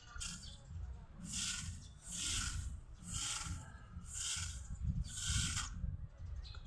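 Short hissing bursts, repeated about once a second, over a low rumble.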